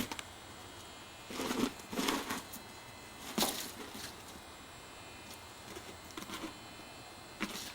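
A dog playing with a ball makes short scuffling, crunching noises, with a burst of several about a second in, a sharp one in the middle and a few fainter ones near the end.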